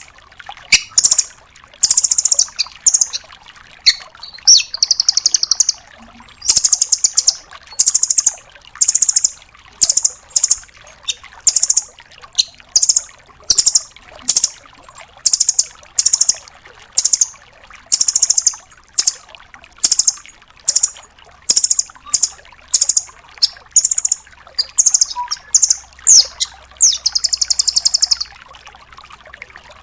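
Velvet-fronted nuthatch calling: a long series of short, high, fast rattling trills, roughly one a second, that stops about two seconds before the end.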